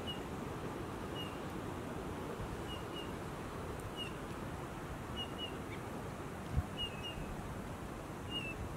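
A small bird calling with short, high chirps, often in quick pairs, about once a second, over a steady low rush of wind. One soft knock about two-thirds of the way through.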